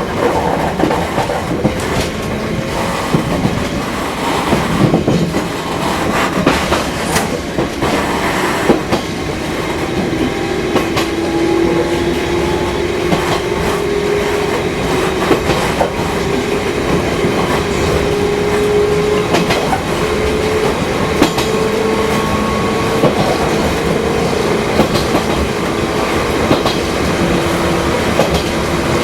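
Fukui Railway Type 200 electric railcar running, with a whine from its motors and gears that climbs steadily in pitch from about a third of the way in as the train picks up speed. Short clicks and knocks from the wheels and track come throughout.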